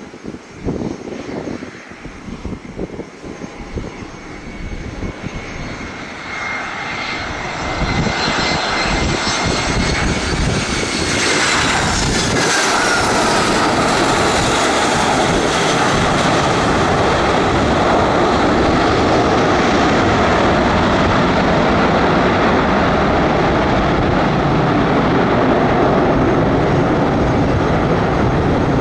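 Aircraft engines growing louder as a plane passes close by, their whine sliding down in pitch as it goes past, then a steady loud engine roar. Wind buffets the microphone at the start.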